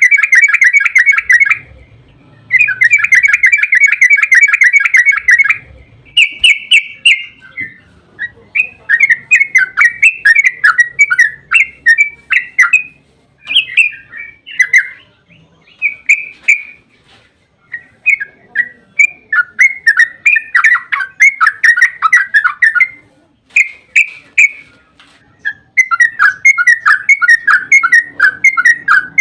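Yellow-vented bulbul (trucukan) singing. Two long, rapid chattering trills come in the first few seconds, then a run of short, bubbly, warbled phrases with brief pauses between them.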